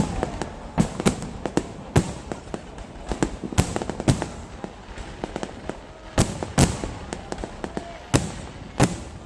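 Fireworks going off: sharp bangs at irregular intervals, one or two a second, over a steady noisy background of more distant bursts.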